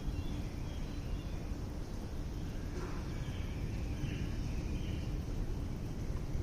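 Outdoor ambience: a steady low rumble with faint, scattered short chirps, like distant birds or insects.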